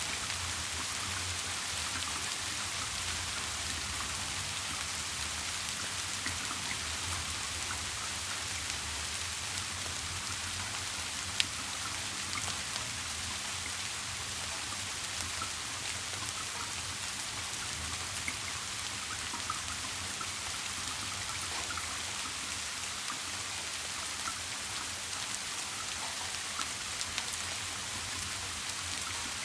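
Steady rain falling, an even hiss with scattered drops ticking, and one sharp louder tick about eleven seconds in. A faint low hum runs underneath.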